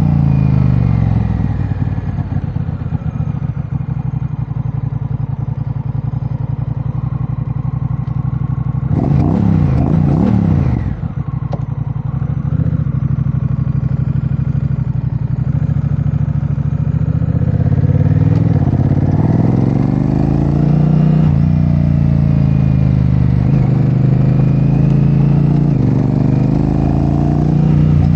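Honda Rebel 1100's parallel-twin engine running through a Vance & Hines aftermarket exhaust while riding. The revs fall at first and the engine pulses at low revs, with a brief rush of noise about nine seconds in. In the second half the revs climb several times with short drops between, as it accelerates through gear changes.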